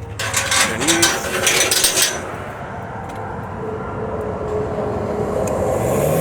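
Metallic clattering and clicking for about two seconds, then a boom lift's motor running steadily, slowly rising in level and pitch toward the end.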